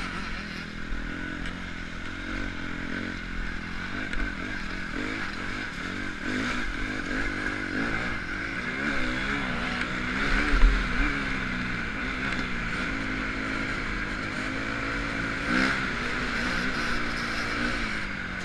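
Motocross bike engine revving up and down as it is ridden, its pitch rising and falling over and over.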